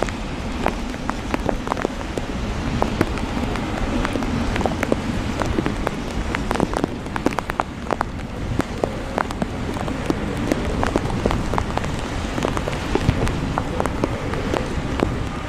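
Heavy rain falling, a steady hiss with many individual drops ticking sharply close by, over a steady low rumble.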